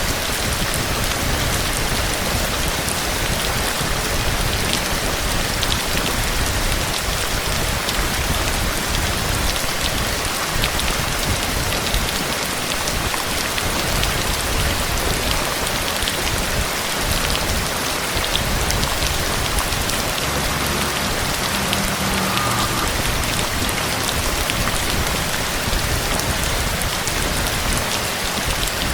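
Rain falling steadily: a dense, even hiss with the sharp ticks of single drops striking a surface.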